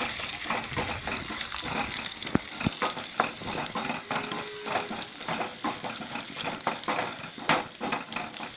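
Cubed onions sizzling in hot oil in a pan, a steady frying hiss, with scattered clicks of stirring against the pan.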